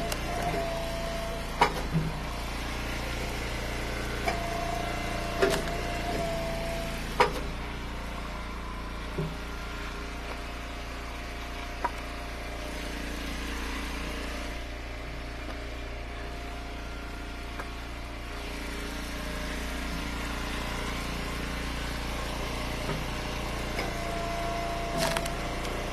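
Gas engine of a hydraulic firewood splitter running steadily, with a higher whine that comes and goes three times and a few sharp cracks.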